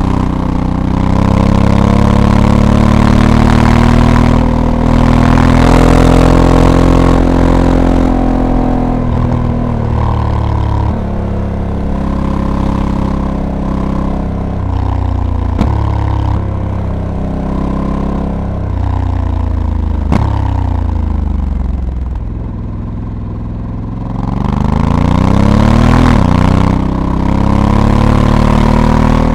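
Honda Africa Twin's 1084 cc parallel-twin engine pulling hard on the road, its pitch climbing and stepping down again as the DCT gearbox shifts gears. About two-thirds of the way through it eases off and goes quieter, then revs climb again near the end. Two sharp clicks are heard in the middle.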